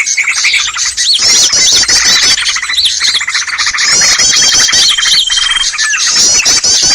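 Loud, dense chorus of many small birds chirping and calling at once: rapid runs of high chirps overlap curved call notes, with a high, steady whistle held for about a second a few times. This is a bird-trapping lure (pikat) recording made to draw small birds in.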